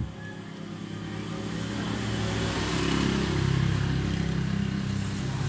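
A motor vehicle engine running, growing louder over the first three seconds and then holding steady.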